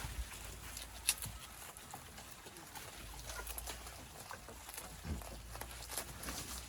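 Goats feeding on hung leafy fodder: leaves rustling and chewing, with scattered light clicks and one sharp knock about a second in.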